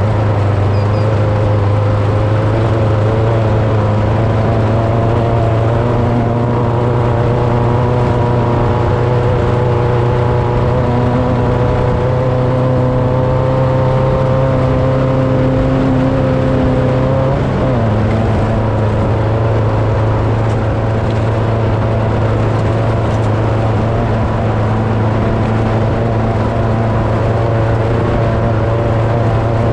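Vehicle engine running steadily at a constant speed, with a brief shift in the engine note about 18 seconds in, after which it runs slightly quieter.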